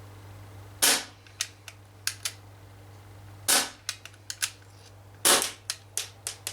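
Umarex XBG CO2-powered BB pistol fired three times, a couple of seconds apart. Each shot is a sharp pop followed by a few lighter ticks.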